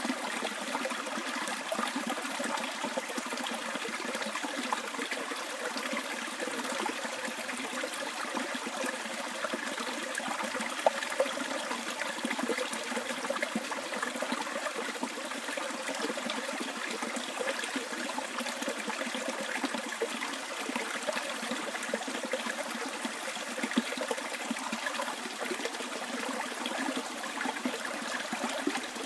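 Small bush stream flowing and trickling steadily, with a couple of brief louder moments in the flow, about eleven and twenty-four seconds in.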